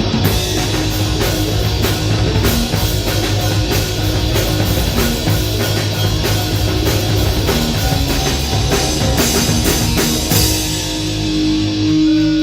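Live heavy rock band playing, with drum kit and distorted electric guitar. About ten seconds in the drumming stops and a single held note rings on as the song ends.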